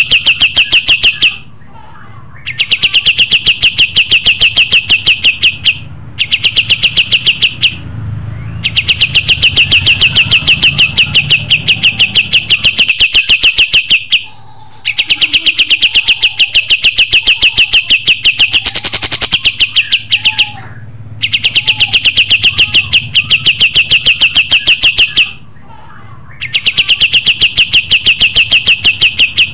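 Pin-striped tit-babbler (kapas tembak) singing its long, rapid chattering series of evenly repeated notes, in runs of a few seconds broken by short pauses.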